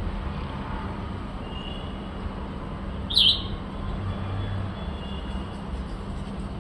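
A bulbul gives one short, sharp call about three seconds in, with fainter calls before and after, over a steady low hum.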